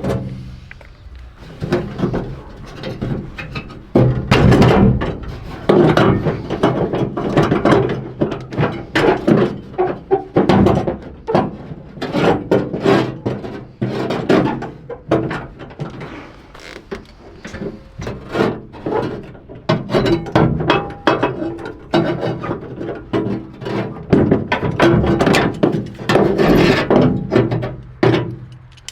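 Hand-tool work on a truck being stripped: repeated bursts of fast ratchet-like clicking mixed with metal knocks and clunks.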